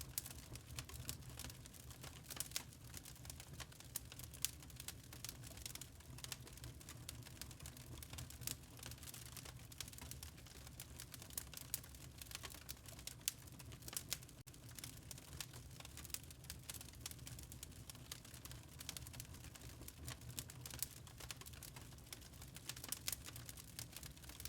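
Wood log fire in a fireplace crackling: quick, irregular pops and snaps over a low steady rumble.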